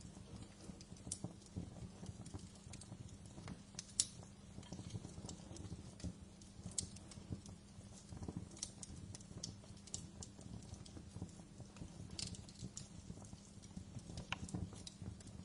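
Wood fire in a fireplace crackling: irregular sharp pops and snaps, the loudest about four seconds in, over a low steady rumble of the burning fire.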